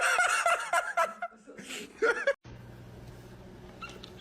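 A person laughing in short, repeated chuckles. About two and a half seconds in the sound cuts off abruptly to a quieter, steady low hum.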